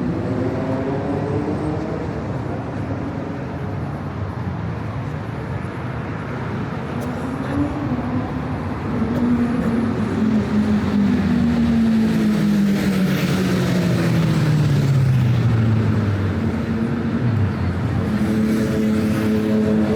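Road traffic with car engines running and passing close by. From about nine seconds in one engine's note falls steadily for several seconds as the traffic grows louder.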